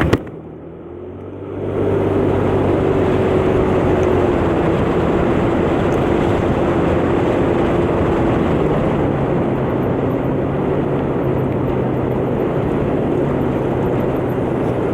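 A 125cc motor scooter engine running under way, with a steady rush of wind and road noise. After a brief quieter moment at the start, it picks up within about two seconds and holds a steady drone with a whine that falls slowly in pitch.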